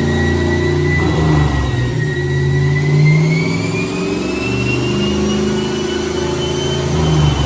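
Turbocharged 5.2-litre Magnum V8 in a Dodge Dakota running under load on a chassis dyno, engine note shifting in pitch a few times, with a thin whine that rises slowly in pitch throughout.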